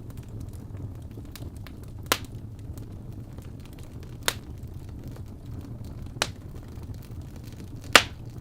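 Wood fire burning in a fireplace: a steady low rumble of flames with faint crackling, and four sharp pops about two seconds apart, the last the loudest.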